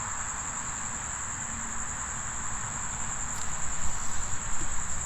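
Crickets chirping in a continuous high, steady trill, over a low rumble that grows louder in the second half.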